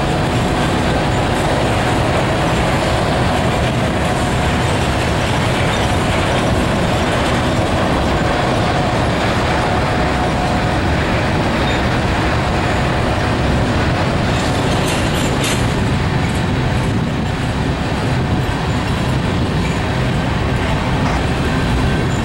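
Covered hopper cars of a slow freight train rolling past, a steady rumble of steel wheels on the rails, with a few sharp clicks about fifteen seconds in.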